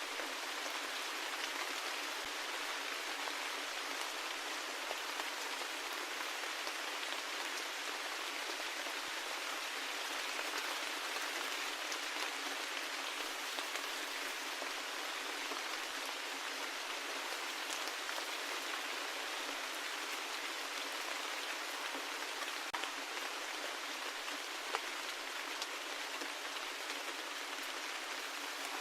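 Steady rain falling, an even hiss of drops with occasional sharper drop ticks and no low rumble.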